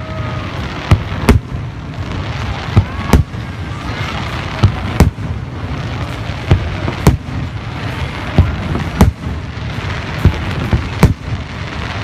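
Fireworks going off: sharp bangs about every second or two over a continuous rumble of further bursts.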